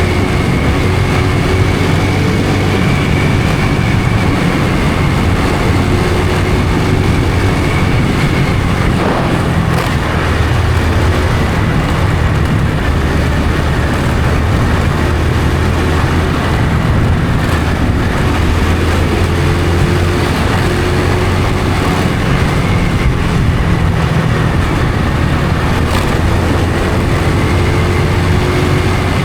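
Honda Supra X 125 FI's single-cylinder four-stroke engine running steadily while the motorcycle is ridden, its note shifting a little with the throttle, over a continuous rush of riding noise.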